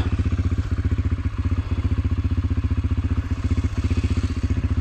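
Dirt bike engine idling with a steady, fast, even putter.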